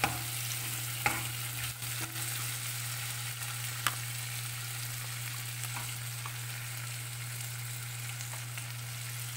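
Tomatoes, onion, pork and black beans sizzling in a hot pot as a wooden spatula stirs them, with a few sharp knocks of the spatula against the pot in the first four seconds. A steady low hum runs underneath.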